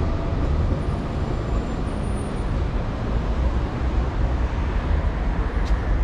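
Passenger train carriage running along the line: a steady low rumble and rattle without speech.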